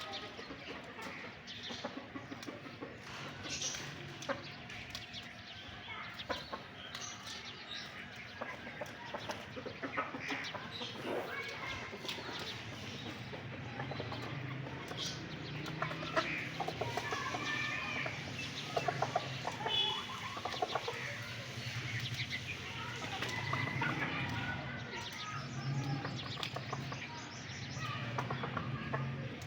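A flock of chickens clucking and calling, with many short overlapping calls throughout.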